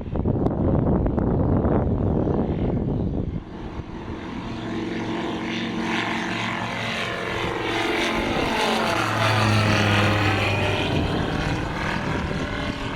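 Light propeller aircraft's piston engine at take-off power as it departs and passes by. It opens with about three seconds of loud rushing noise, then the steady engine note grows louder towards the end and eases slightly.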